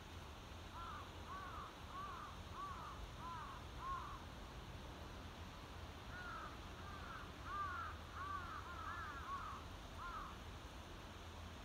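A bird calling in two runs of short, faint calls, each call rising and falling in pitch, about two a second: the first run lasts about three seconds, and the second starts about six seconds in.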